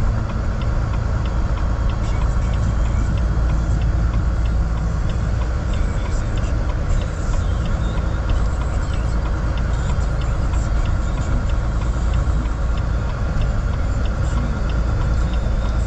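Car interior noise while driving on a highway: a steady low rumble of engine and road, with a faint regular ticking above it.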